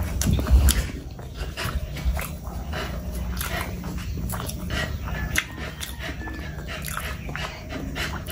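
Close-miked eating: wet chewing and lip-smacking of a mouthful of rice and curry eaten by hand, heard as a quick run of soft wet clicks and smacks.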